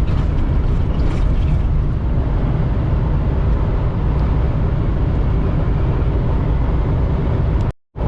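Steady low rumble of a semi truck's engine and road noise inside the cab at highway speed. The sound breaks off completely for a moment near the end.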